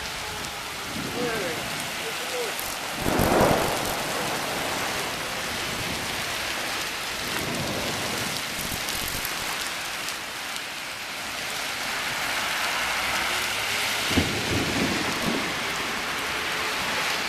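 Heavy downpour: rain pouring steadily and drumming on surfaces, with a louder low rumble swelling about three seconds in.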